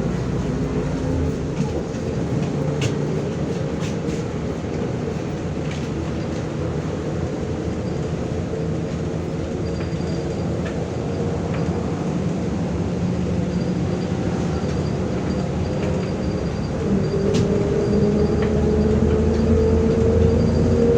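Interior of a MAZ-105 articulated city bus on the move: a steady engine and road drone with a few sharp rattles and clicks. Near the end it gets louder and a whine rises slowly in pitch as the bus picks up speed.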